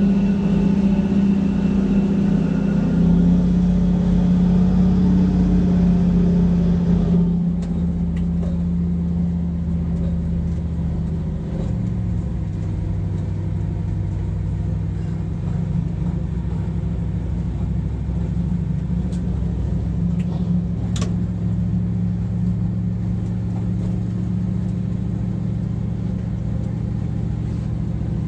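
Locomotive running steadily, a loud low drone as heard from the driver's cab. Its tone shifts about seven seconds in and again around twelve seconds, with a brief sharp click near the end.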